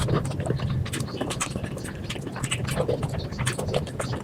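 Close-miked chewing and crunching of spicy fried chicken skin and rice, played at five times speed, so the wet mouth clicks and crunches come thick and fast over a low steady hum.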